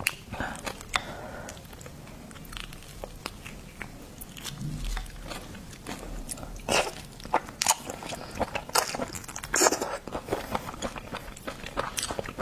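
Close-miked eating of seafood: chewing and biting, with many short, scattered wet clicks and crunches.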